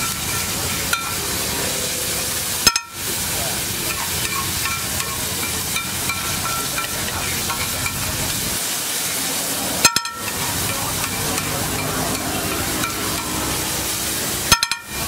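Chopped vegetables sizzling in oil on a large flat iron griddle, stirred and scraped with a metal spatula. There are a few sharp clicks, the loudest at about three seconds, at about ten seconds and near the end.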